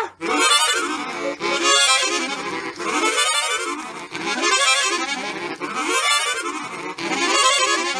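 Accordion music, a lively phrase that climbs and falls in pitch about every second and a half.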